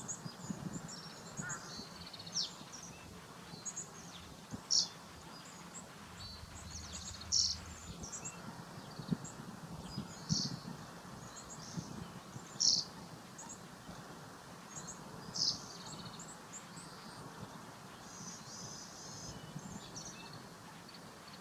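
Birds calling: a short, sharp, high call repeated about every two to three seconds, with fainter chirps in between.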